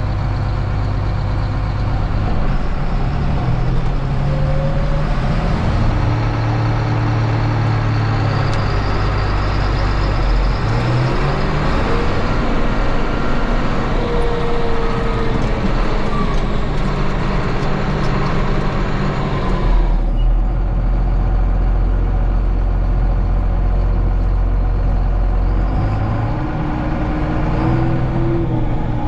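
John Deere 4555 tractor's six-cylinder turbo diesel engine running as the tractor drives along, its engine speed rising and falling several times.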